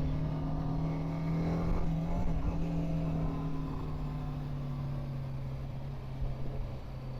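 BMW G 310 GS single-cylinder engine running steadily while riding in city traffic, its pitch easing down a little in the second half as the bike slows.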